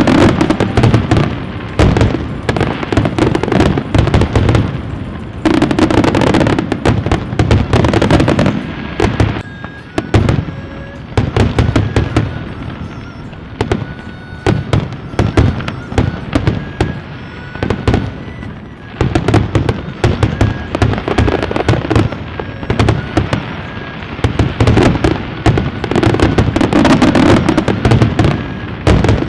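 Fireworks going off in rapid, crackling volleys of bangs, densest near the start, from about five to nine seconds in, and through the last ten seconds, with thinner scattered pops in between.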